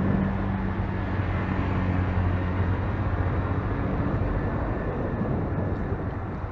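A motor vehicle's engine running with a low hum that fades after about four seconds, over steady road and wind noise.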